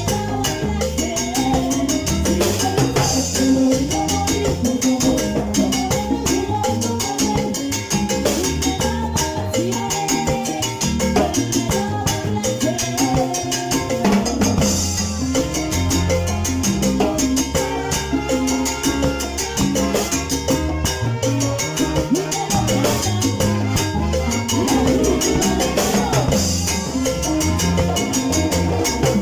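Salsa orchestra playing in rehearsal, with drums and percussion over a moving bass line.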